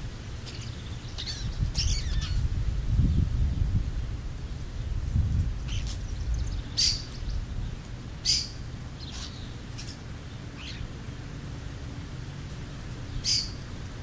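Short, high bird calls: single chirps spaced a second or more apart, over a low rumble that fades after the first few seconds.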